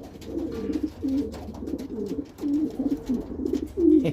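Domestic pigeons cooing over and over in low, warbling coos, with faint clicks over them, while two pigeons fight over territory.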